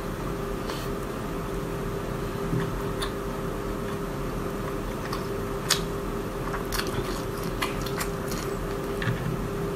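A person chewing and biting whole braised squid, with soft wet mouth sounds and scattered small clicks and smacks.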